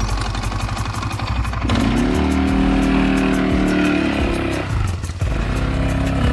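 Small off-road motorbike engine running, then revving up about two seconds in and holding a steady pitch as it rides off. The pitch drops away briefly around five seconds in, then picks up again.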